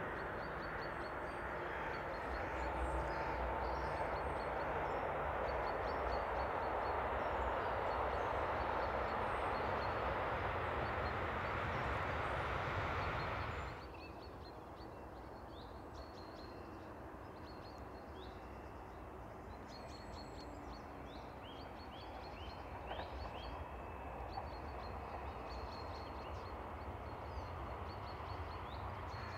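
Electric freight train rolling past with a steady rumble of wheels on rail, which cuts off abruptly about 14 seconds in. Then birds chirp over quiet countryside, and an electric passenger train approaching grows faintly louder near the end.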